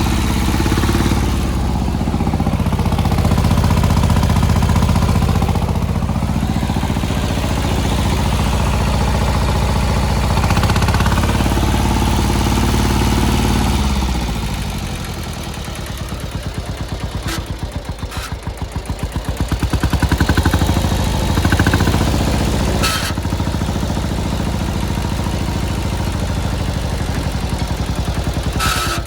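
Kubota L175's Z750 two-cylinder diesel engine running steadily, then dropping to a slower, pulsing idle about halfway through, with a couple of brief rises in speed and a few sharp clacks.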